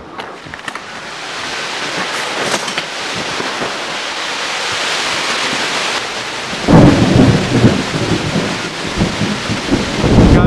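Severe thunderstorm: a steady rush of heavy rain and wind that slowly grows louder. About two-thirds of the way in, a loud thunderclap breaks in and rumbles on.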